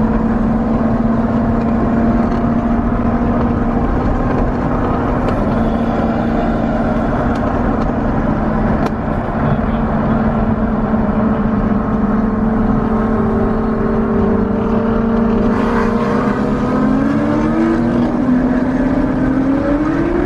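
Car engine and exhaust droning at a steady speed. Over the last few seconds the pitch dips and then climbs as the throttle changes.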